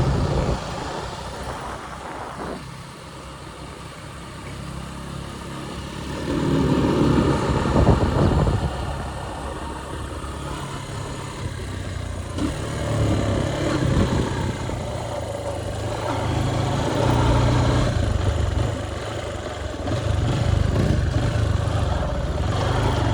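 Motorcycle engine and wind noise while riding, heard from the rider's microphone. The sound dips for a few seconds early on, then swells again as the bike speeds up.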